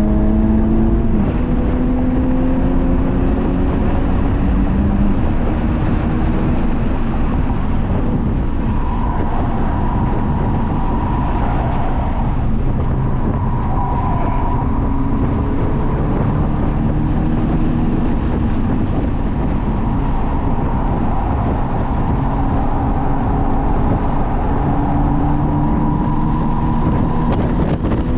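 Honda Civic Type R FK8's turbocharged 2.0-litre four-cylinder engine being driven hard at track pace. Its note climbs gently in pitch several times as the car accelerates, over steady road and tyre noise.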